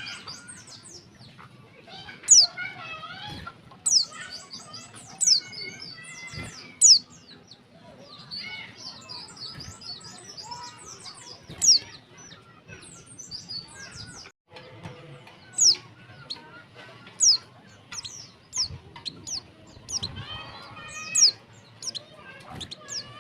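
Female white-eye (pleci) calling: sharp, thin, high notes that sweep downward, repeated every second or two, over softer continuous twittering.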